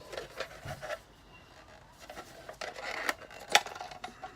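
Hands handling paper and plastic toy parts: rustling and scraping with a few small clicks, and one sharp click about three and a half seconds in.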